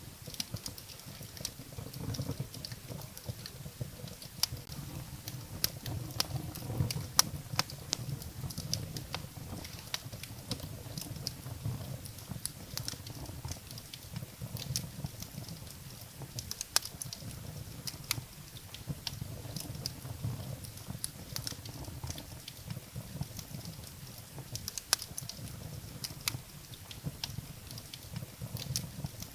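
Firewood burning in a fireplace: irregular sharp crackles and pops over a low, steady rumble of the flames.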